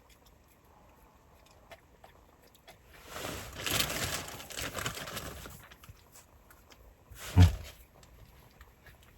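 Dog sniffing and snuffling at close range for about three seconds, then one short, sharp, low sound about two-thirds of the way through.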